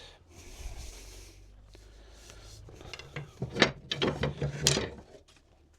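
Wooden spindle being pushed and worked into its hole in a gate rail during a dry fit: a dry rub of wood on wood, then a cluster of sharp creaks and knocks from about three and a half seconds in.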